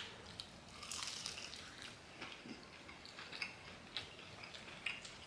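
Crunching and chewing on crispy fried chicken close to the microphone, with irregular short crackles.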